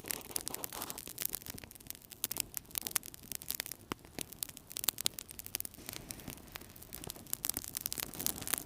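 Wood fire burning in a fireplace, crackling with many irregular sharp pops and snaps over a low steady rush of flame.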